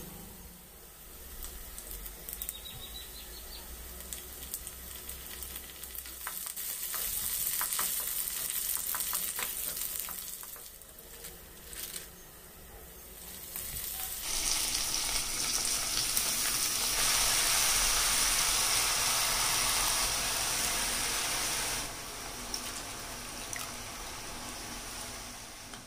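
Chopped onions and cumin seeds frying in oil in a pan, a steady sizzle, with the clicks of a spatula stirring against the pan. Just past halfway the sizzle gets louder as chopped cabbage goes into the hot pan, then it eases off near the end.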